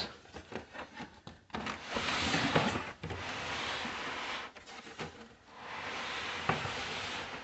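Cardboard packaging being slid and rubbed while a coffee machine is unboxed: three long scraping, rustling strokes with a few small knocks between them.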